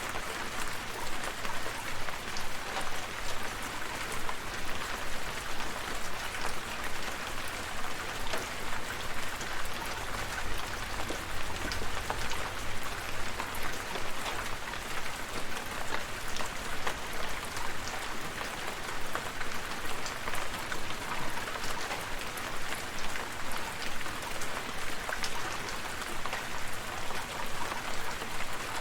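Steady rain falling, an even hiss with many small, distinct drop patters. It holds the same intensity throughout.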